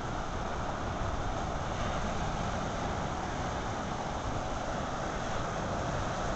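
Strong wind buffeting the microphone in a steady, fluttering rush, over the wash of waves on the shore.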